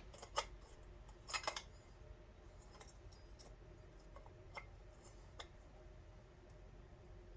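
A few light clicks and taps of small metal carburetor parts being handled and fitted, with a short cluster of clicks about a second and a half in, over a low steady hum.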